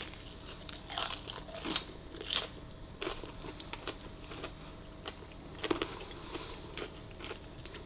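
Mouth biting into and chewing a roast potato cooked in beef dripping, with irregular crunches of its crisp crust.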